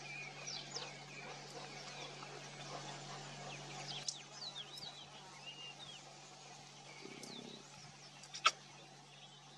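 Faint, scattered bird chirps and short whistled glides over a steady low hum, with a single sharp click near the end.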